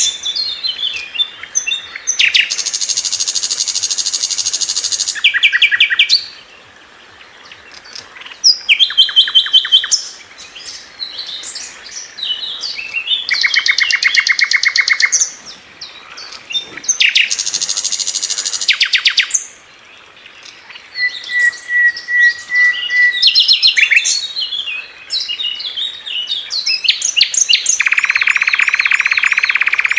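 Sikatan londo flycatcher singing at length: varied high chirping phrases mixed with fast, buzzy rattling trills of two to three seconds, with short pauses between phrases and one thin held whistle about two-thirds of the way through.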